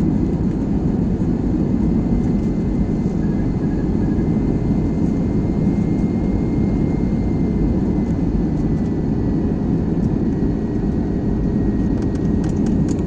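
Airliner noise during landing: a steady low rumble of engines and rushing air, with a faint high whine held throughout.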